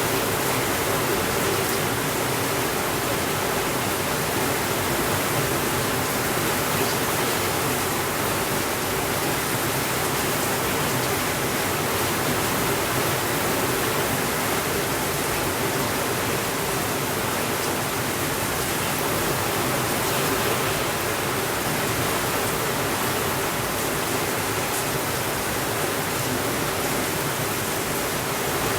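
Heavy rain falling steadily on a window: an even, unbroken hiss.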